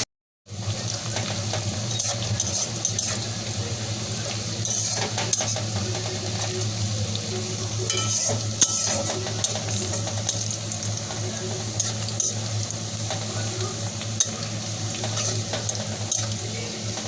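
Sliced onions frying in hot oil in a pan, sizzling steadily, with a spatula stirring and scraping against the pan now and then. A steady low hum runs underneath. The sound cuts in after a half-second gap.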